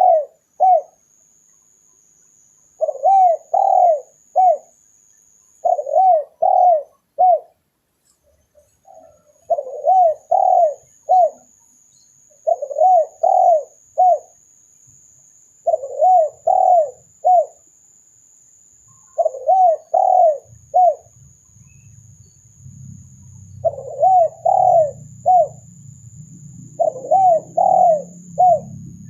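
Spotted dove cooing: a repeated phrase of three or four rounded coo notes, given about every three seconds, played as a recorded lure call.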